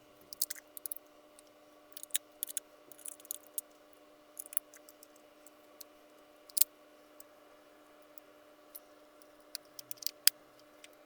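Irregular small clicks and taps of objects being handled, with a sharper click about six and a half seconds in and another near the end, over a faint steady hum.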